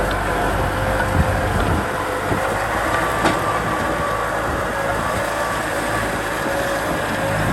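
Kubota M6040 SU tractor's diesel engine running steadily under a mechanical whine, with a few short knocks in the first half.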